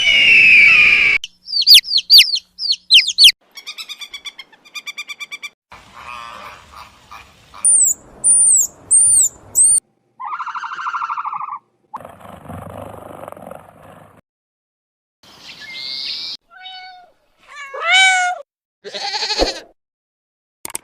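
A string of different bird calls, each a short separate recording, changing every second or two: sharp chirps, rapid trills, repeated whistled notes and pitched squawks.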